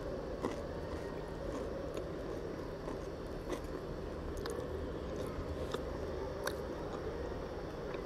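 A person chewing a mouthful of crusty baguette sandwich, with soft mouth sounds and scattered small clicks and crackles.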